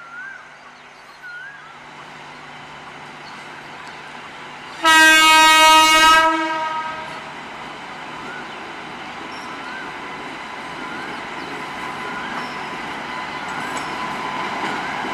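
WAP-7 electric locomotive sounding one loud horn blast about five seconds in, lasting about a second and a half, followed by the rumble of the approaching train growing steadily louder.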